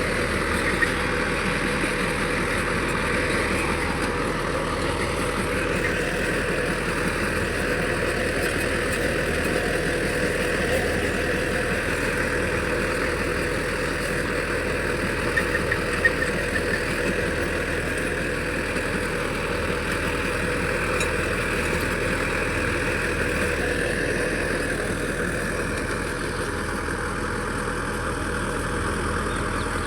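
Tractor engine running steadily, with a couple of brief knocks about halfway through.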